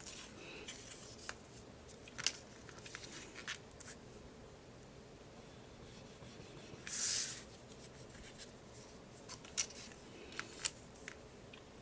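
Paper being handled and worked at a craft desk: scattered light clicks and taps of tools and card, with one brief rasping rustle of paper about seven seconds in.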